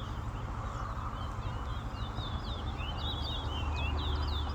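Two caged songbirds singing against each other in a song race, quick whistled and twittering phrases overlapping without pause. A low rumble runs underneath and gets heavier about halfway through.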